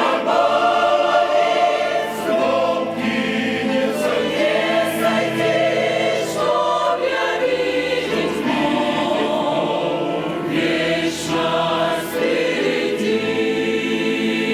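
Church choir singing a Russian-language hymn in several voice parts, with long sustained chords.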